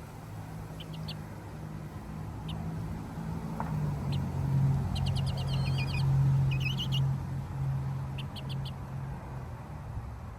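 A low, steady hum that drops slightly in pitch about four seconds in, with short, high bird chirps in small clusters scattered over it, busiest about five to seven seconds in.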